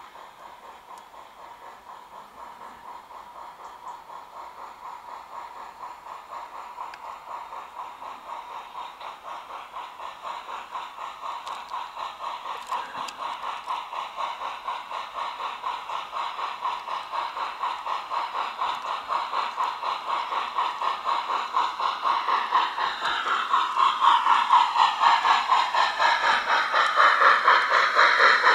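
Garden-railway model of a narrow-gauge steam locomotive, its sound module playing a rapid, even steam chuff that grows steadily louder as the train approaches. The chuff sits high and thin, with no low bass, as from a small loudspeaker.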